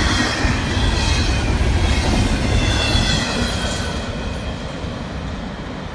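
Double-stack intermodal freight train rolling past, its wheels rumbling and clacking on the rails with a thin wheel squeal. The sound slowly fades as the last cars go by.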